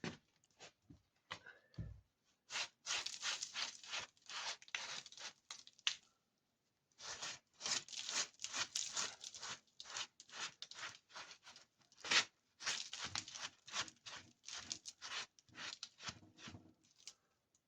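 A rag scrubbing over brickwork in quick, irregular strokes, wiping half-dried mortar off the bricks of a stove after the joints have been filled, with a brief pause partway through.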